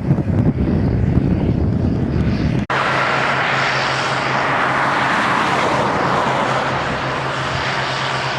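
Wind buffeting the microphone with a low rumble, then after an abrupt cut about two and a half seconds in, the steady drone of a Case IH combine harvester running in the field, with a constant low hum under it.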